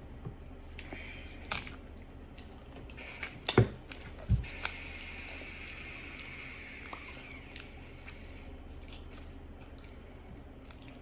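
A person chewing a mouthful of food, with a few scattered sharp clicks and knocks.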